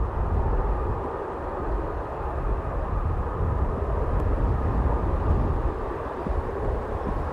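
Aircraft engine noise at an airport, a steady rushing sound, with wind rumbling on the microphone.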